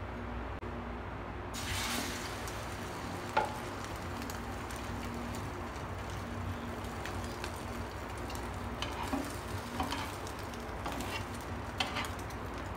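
Egg-coated slice of bread frying in hot oil in a non-stick pan, starting to sizzle about a second and a half in and sizzling steadily after that. A sharp click a couple of seconds later and light metal ticks near the end come from tongs against the pan.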